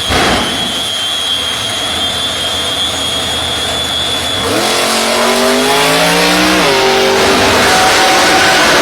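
Jet engines of the Shockwave jet truck running with a high steady whine over a roar, with one thump near the start. About halfway through, the roar swells and a piston-engined race car is heard accelerating, its pitch climbing and then dropping sharply once, as at a gear change.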